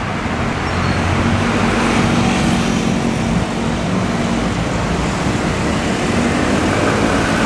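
A steady, low engine-like hum under even background noise, with no distinct strikes or changes.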